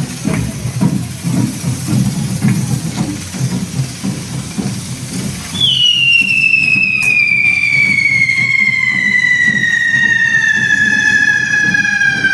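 A whistling firecracker going off: about halfway through, a loud shrill whistle starts suddenly and slides slowly and steadily down in pitch, still sounding at the end, like a train whistle. Before it there is background noise with small knocks.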